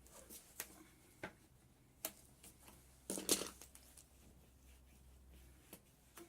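Scattered light clicks and knocks from small hard objects being handled, with a louder brief clatter about three seconds in, over a faint low hum.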